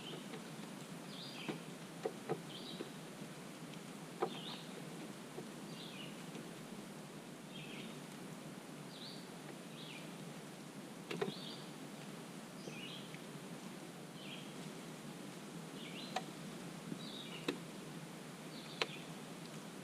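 A bird calling over and over in short, falling chirps, roughly one a second, over a steady outdoor background. A few sharp clicks and taps stand out, the loudest a couple of seconds in and about eleven seconds in.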